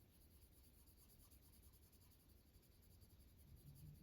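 Near silence with the faint scratch of a colored pencil shading very lightly on paper, barely touching the page.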